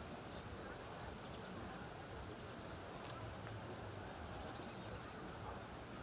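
Faint, steady outdoor background hiss with a few small bird chirps high above it, including a quick run of chirps about five seconds in.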